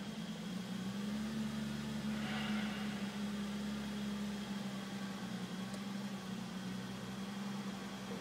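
BMW E34 M5's straight-six engine idling with a steady hum: the rough idle the owner is showing.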